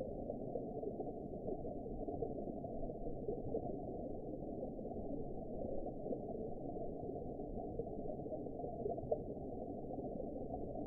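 Underwater ambience: a steady, deep, muffled wash with no high sounds in it and no distinct events.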